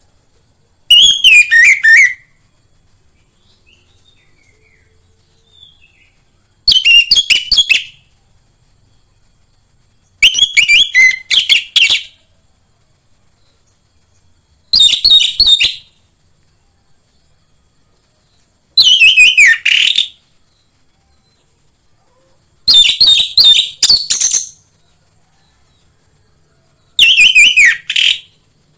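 Orange-headed thrush (anis merah) singing: seven short, loud, rich song phrases, each about a second long, spaced about four seconds apart, several ending on a falling note. A faint steady high hiss runs underneath.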